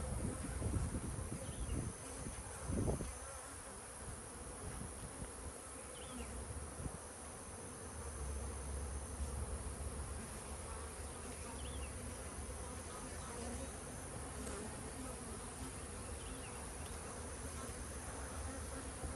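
Swarm of honeybees buzzing steadily around an open hive, a defensive, testy colony. A few low thumps come in the first three seconds.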